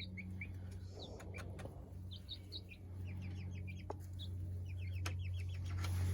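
Young chickens peeping in quick runs of short, high chirps, over a steady low hum.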